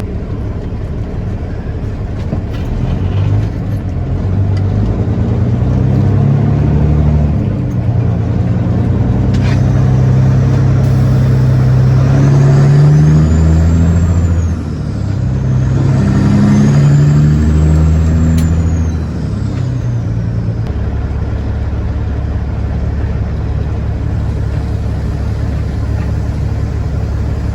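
Semi-truck diesel engine heard from the cab, pulling hard with its pitch climbing and then dropping at several gear shifts, then running steadier and quieter for the last several seconds.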